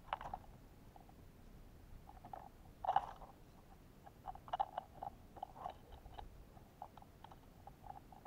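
Irregular small taps and cracks of animals feeding at a bird feeder stocked with sunflower seeds and suet: beaks or teeth pecking and cracking seed, with one louder crack about three seconds in.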